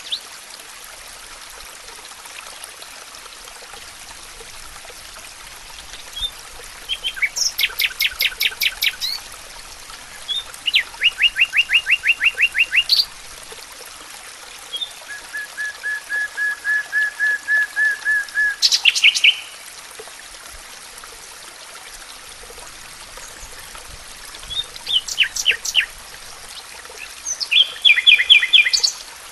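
Songbird singing in the forest: five phrases of fast repeated notes separated by pauses of a few seconds, one of them a long even trill that swells in loudness, over a steady hiss.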